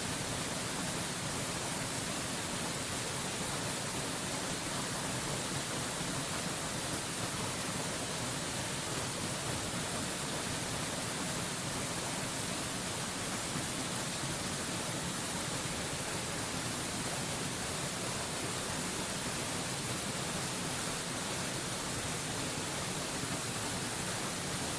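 Waterfall rushing in a steady, even hiss that spreads from low to very high pitch, with no breaks or changes.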